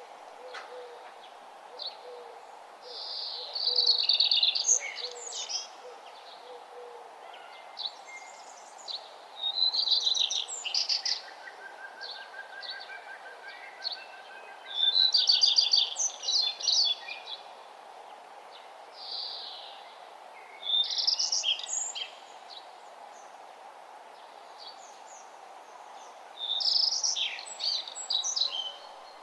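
A songbird singing short, bright, rapid trilled phrases in bursts about every five or six seconds, over a steady low background hum.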